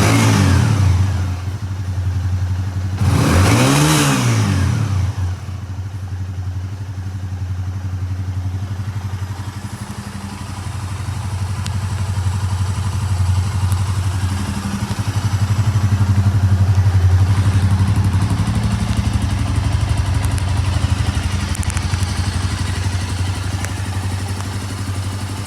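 Honda GB250 Clubman's air-cooled single-cylinder four-stroke engine running: a throttle blip that falls away right at the start and another quick rev up and down about four seconds in, then steady idling that swells a little in level around the middle.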